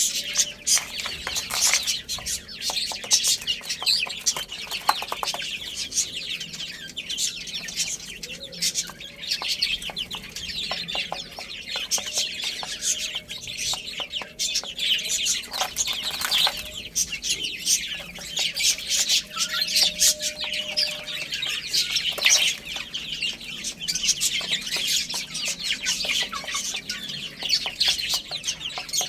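A group of baby chicks cheeping constantly in high, overlapping chirps, mixed with many short taps and rustles.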